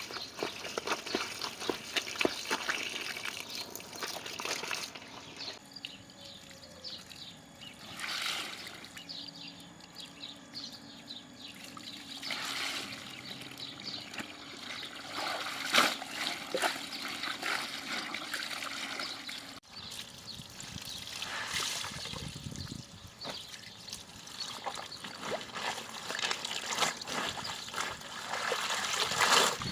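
Water trickling and splashing, swelling and easing off in uneven spells, with small clicks mixed in.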